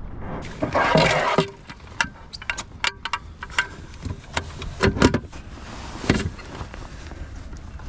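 Handling knocks in a kayak while a landed largemouth bass is laid out and measured: a brief rustle about a second in, then scattered sharp knocks and clicks of the fish and gear against the boat and measuring board.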